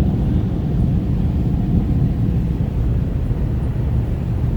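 Touchless car wash air dryers blowing: a steady, loud, low rumble of rushing air.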